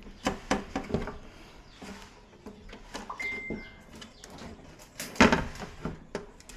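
Clicks and knocks from TV parts being handled during disassembly and reassembly, with a quick string of them at the start and the loudest cluster about five seconds in. A short high whistle sounds near the middle.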